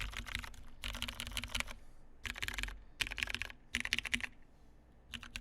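Typing on a CMGTKL mechanical keyboard with lubed Cherry MX Brown switches on a polycarbonate plate, gummy O-ring mounted: fast runs of keystrokes separated by short pauses, with a longer pause near the end.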